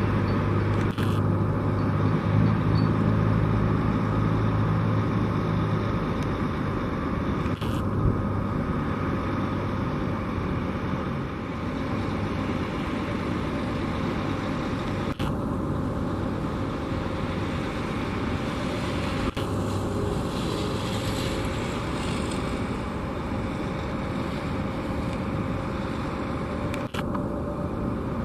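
Boeing 757-200 jet engines running at low taxi thrust: a steady rumble carrying a faint, even whine, with a deeper hum in the first few seconds.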